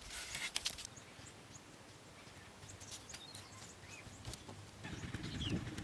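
Faint outdoor background with a few short bird chirps and scattered light clicks.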